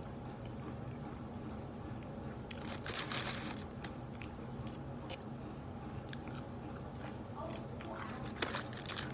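Close-up biting and chewing of crispy Popeyes fried food. The crunching is loudest about three seconds in, with a few sharp crunches again near the end.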